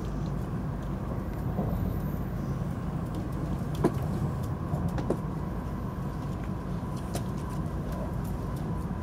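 Steady low rumble of a Shinkansen train running on the track, heard inside the carriage as it comes into the station, with a few sharp clicks about four and five seconds in.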